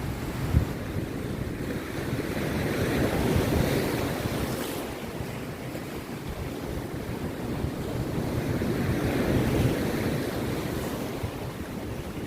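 Rough sea surf breaking on a beach: two big surges of wash, one about three seconds in and another about nine seconds in, over a steady background roar. Wind buffets the microphone with low thuds near the start.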